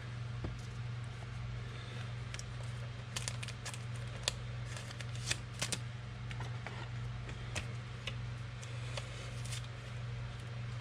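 Football trading cards being handled and flipped through, with a scatter of light clicks and snaps over a steady low hum.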